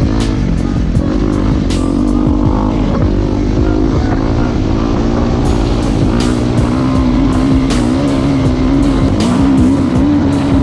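Suzuki RMZ250 dirt bike's 250cc single-cylinder four-stroke engine being ridden, its pitch rising and falling as the throttle opens and closes, with sharp knocks and buffets from riding over rough ground.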